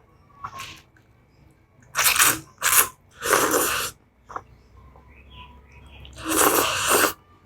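Spicy instant noodles slurped up close in four loud, hissing slurps: three in quick succession about two seconds in, and a longer one near the end.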